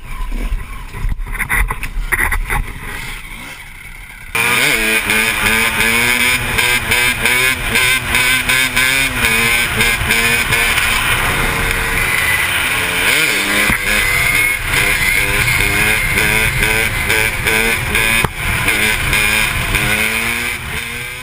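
Dirt-bike engine revving, rising and falling in pitch. It is quieter with some clatter at first, then becomes much louder after an abrupt cut about four seconds in.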